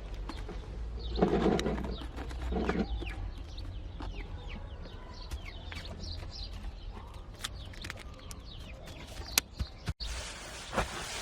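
Newly hatched chicks peeping in many short, high, falling chirps, with two lower calls about a second and two and a half seconds in that fit a mother hen clucking.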